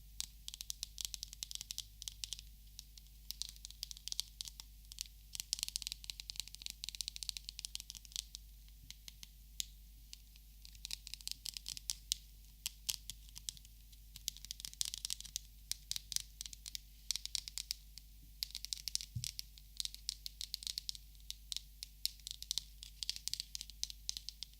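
Close-miked hand sounds on paper and packaging: rapid, crackly scratching and crinkling in bursts a few seconds long, with short pauses between.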